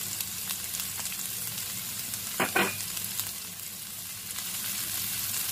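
Chopped onions, ginger and green chillies sizzling in hot oil in a shallow nonstick pan, stirred with a silicone spatula. The hiss is steady, with one brief pitched sound about halfway through.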